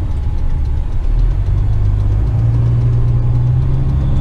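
Western Star tipper truck's diesel engine running at low speed, heard from the cab; a little over two seconds in its low note steadies and strengthens into a constant hum.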